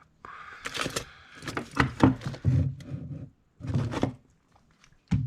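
Irregular knocks, clicks and scraping of small objects being handled and set down on a workbench, in uneven bursts with a couple of short pauses.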